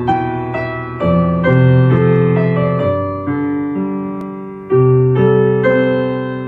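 Mellow ambient electric piano music: soft sustained chords and single notes that fade away slowly, with new chords struck about a second in and again near the five-second mark.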